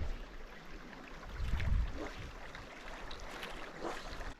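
Wind buffeting the microphone in low rumbling gusts, strongest about a second and a half in, over a steady rush of creek water.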